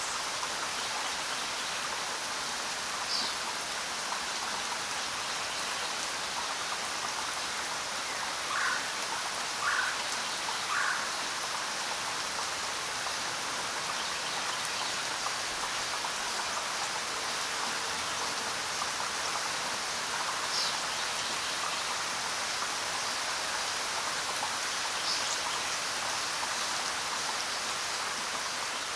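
Steady heavy rain falling, an even hiss with no let-up. A few brief, faint sharper sounds stand out over it, three close together about nine to eleven seconds in.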